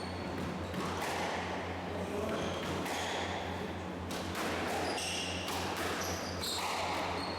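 Squash rally: the ball cracking off rackets and thudding against the court walls again and again, with shoes squeaking on the court floor. A steady low hum runs underneath.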